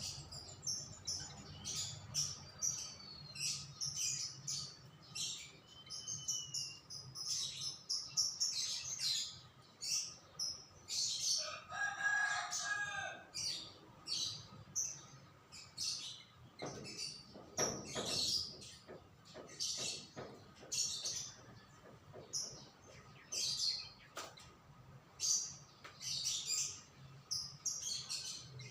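Small songbirds chirping rapidly and continuously in short, high notes, with a lower, drawn-out call about twelve seconds in.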